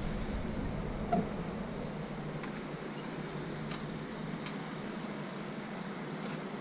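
Idling car: a steady low hum with a few faint clicks.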